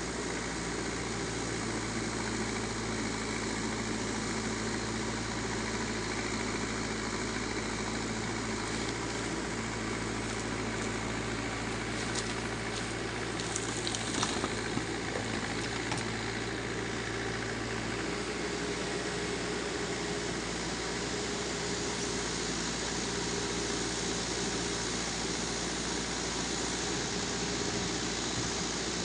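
Backhoe loader's diesel engine running steadily, with a short run of knocks and clatter about halfway through.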